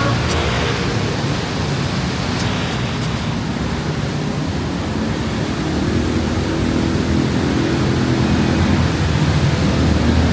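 Steady hiss of heavy rain, with a motor vehicle's engine hum coming up and growing louder in the second half.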